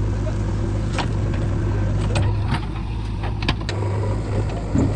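Diesel engine running steadily with a low hum, with a few short sharp clanks over it.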